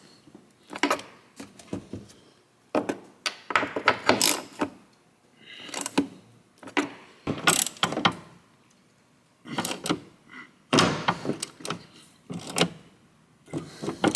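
A wrench tightening a fuel tank strap bolt: repeated short bursts of metallic clicking and rattling with brief pauses between them.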